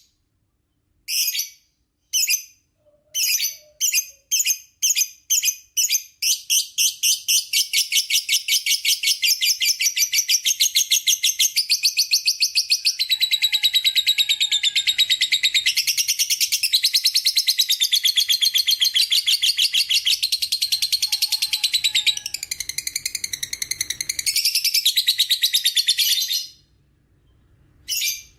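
Lovebird's long 'ngekek' chattering call: a few separate sharp chirps come closer and closer together, then run into a fast, unbroken rapid trill for about twenty seconds that stops suddenly near the end.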